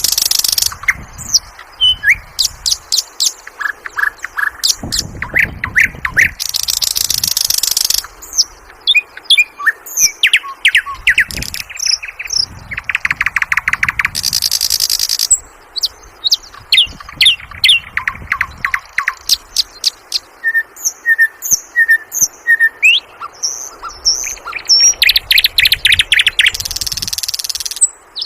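Sikatan londo flycatcher singing a varied song: quick high chirps and whistled slurs, fast rattling runs of repeated notes, and three loud, harsh buzzing stretches about a second long.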